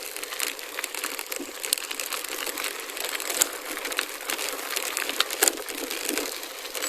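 Gravel bike tyres rolling over a gravel forest road: a steady crunching, with many small clicks and pops from loose stones.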